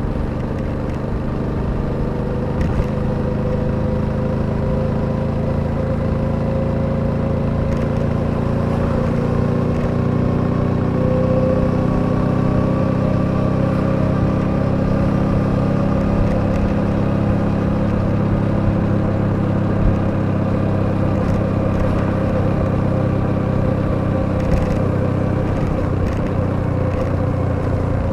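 Suzuki V-Strom 800DE's parallel-twin engine running steadily under way, with a rush of wind and road noise underneath. Its pitch climbs slowly over the first ten seconds or so as the bike gathers speed, then holds steady.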